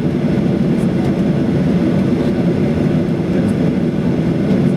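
Boeing 737-800's jet engines heard from inside the passenger cabin as a steady low rumble.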